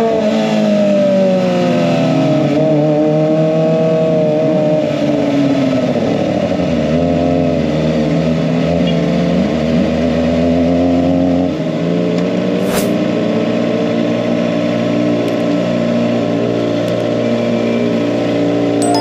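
Kawasaki ZX-25R's inline-four engine running through an SC-Project aftermarket exhaust, its pitch rising and falling as it revs in the first half, then holding steadier. A single sharp click about thirteen seconds in.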